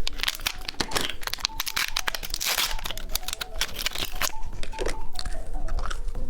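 Candy packaging being crinkled and torn open by hand, a dense irregular crackling with a longer rustle of tearing about two and a half seconds in.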